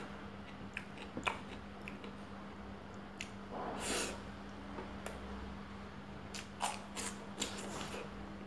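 Close-up eating sounds of a person eating rice by hand: chewing and lip smacks with scattered small clicks, and a louder mouth sound about four seconds in as a handful goes into the mouth. A steady low hum runs underneath.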